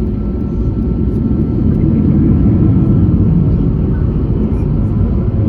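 Airbus A321neo jet engines (Pratt & Whitney PW1100G geared turbofans) running, a loud, steady low rumble with a faint steady whine above it, growing louder about two seconds in.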